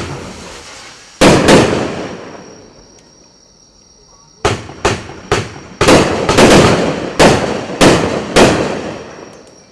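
Consumer firework (Red Lantern RL5471 "Boxing Chicken") going off in a series of loud bangs, each trailing off in an echo: two close together about a second in, then a quick irregular run of about ten more.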